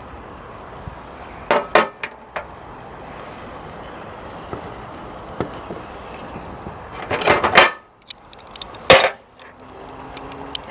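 Metal clinks and clatter of a utensil and lid against a Trangia 25 aluminium cooking pot, in three short clusters, over a steady hiss.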